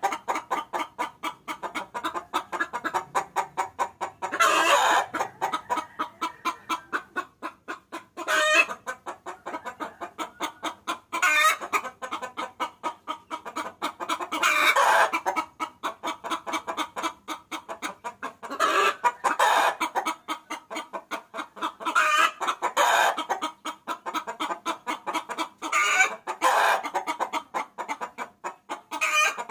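A hen cackling, used as a lure call for roosters: a fast, steady run of short clucks, about five a second, broken every three to four seconds by a louder, drawn-out call.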